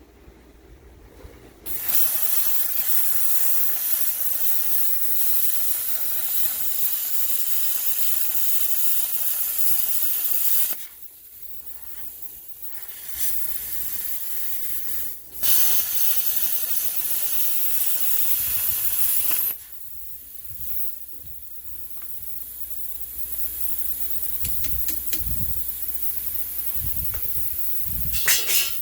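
Loud hissing in long bursts, the first lasting about nine seconds and a second about four seconds, with fainter hissing in between and again near the end.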